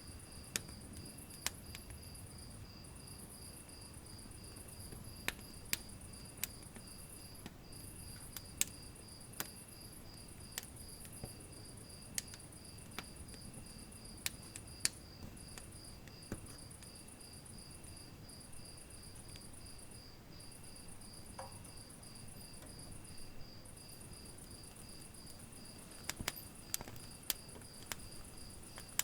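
Wood fire burning in a fireplace: a low rumble of flames with irregular sharp crackles and pops, several coming close together near the end. A steady, rhythmic insect chirping runs underneath.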